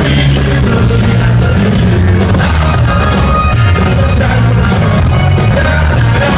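Live band music, loud and continuous, with heavy bass, drums and some singing.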